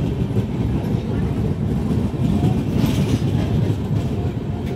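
Express passenger train pulling slowly into the platform, with a steady low rumble of coach wheels running on the rails.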